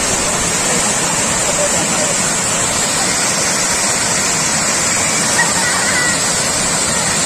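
Loud, steady rush of water pouring over an overflowing dam.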